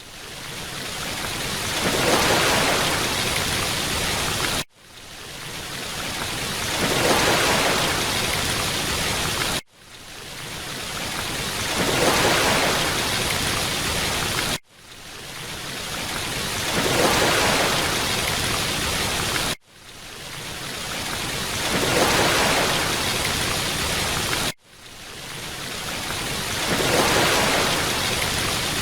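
Rushing-water noise played as a short loop that repeats about every five seconds: each pass starts from a sudden brief cut-out, swells up over about two seconds, then holds steady.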